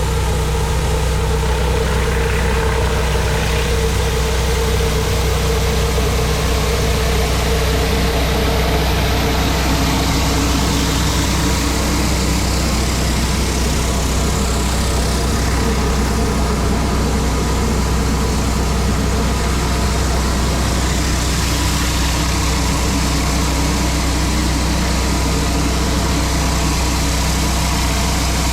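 Pressure washer's engine running steadily, with the hiss of its high-pressure water jet on concrete.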